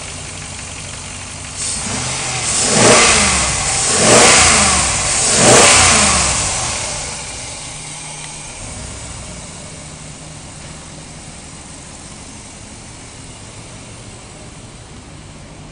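2002 Dodge Durango's 4.7-litre V8 idling, then revved three times in quick succession, each rev rising and falling back, before settling to a steady idle.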